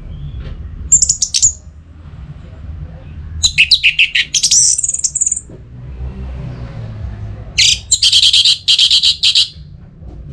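Orange-headed thrush singing in three loud bursts of high, rapidly varied notes: a short phrase about a second in, a longer phrase around four seconds in, and a fast run of repeated notes near the end, over a steady low hum.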